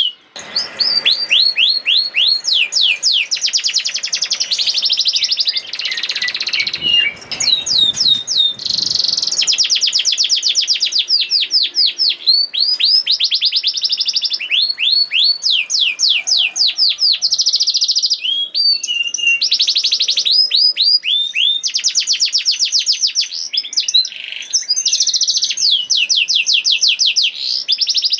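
Domestic canary singing continuously in fast, rapid-fire trills: quick runs of repeated falling whistled notes, changing from one trill type to the next every second or two.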